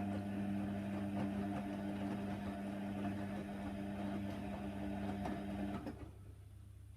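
Hoover Nextra washer dryer running on its Cotton 60 wash, a steady motor hum with churning noise that cuts off suddenly about six seconds in, leaving only a faint low hum.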